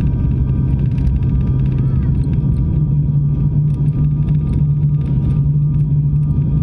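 Airliner cabin noise during landing: a loud, steady low engine drone and rumble heard from inside the cabin, its pitch stepping up slightly about three seconds in.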